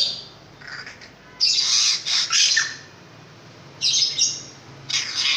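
Long-tailed shrike giving harsh, rasping squawk calls in quick clusters of two or three, about five bursts with short pauses between them.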